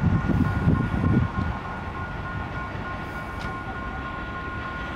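Low rumble of trains at a level crossing, heaviest in the first second and a half, then steady, over the continuous two-tone ring of the crossing's warning signal.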